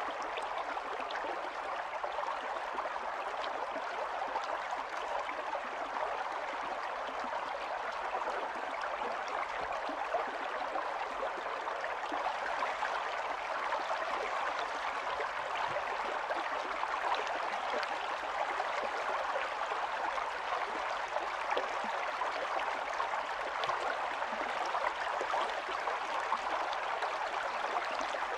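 Stream of running water flowing and gurgling steadily over stones.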